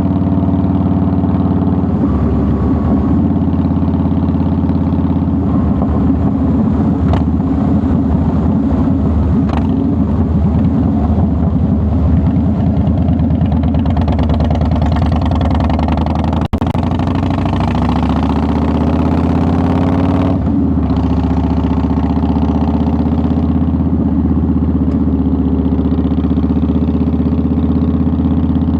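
2009 Harley-Davidson Softail Deluxe's Twin Cam 96 V-twin running on the road. Its note changes about two seconds in, and there is a brief sharp click about sixteen seconds in. The pitch then rises for a few seconds as it accelerates, and it settles back to a steady note.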